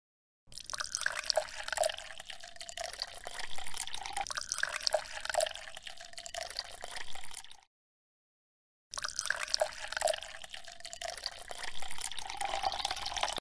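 Water trickling and dripping with many small pops, in two stretches separated by about a second of dead silence.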